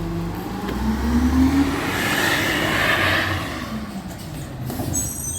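Recycling truck's engine running, its pitch rising about a second in as it revs, with a rushing hiss that swells and fades about halfway through.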